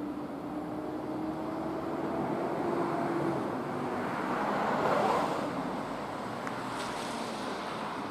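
A train of 12-series passenger coaches hauled by an EF65 electric locomotive rolling slowly through the station yard: a steady rumble with a faint hum that sags slightly in pitch over the first few seconds, swelling to its loudest about five seconds in.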